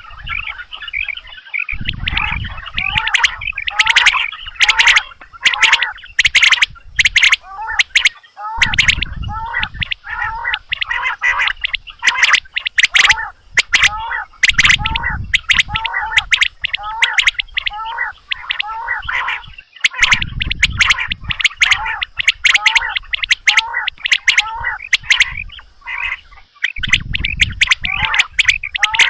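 Quail calling for a hunting lure recording: many quick, repeated chirping calls overlapping one another, with sharp clicking notes. A low rumble comes and goes about every six seconds.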